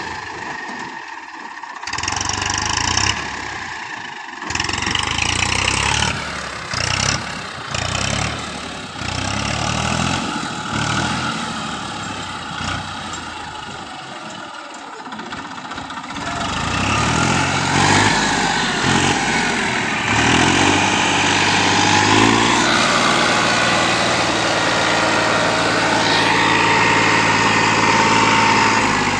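TAFE 241 DI tractor's diesel engine running, broken up by short gaps in the first half. From about halfway it is steady and louder, rising in pitch and then holding an even note.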